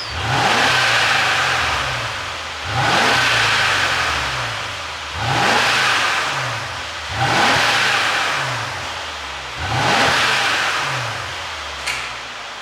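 Mercedes-Benz W222 S500L twin-turbo V8 blipped five times in quick succession, each rev climbing sharply and then falling back toward idle, on an ECU tune meant to make the exhaust pop on the overrun. A single sharp click comes near the end.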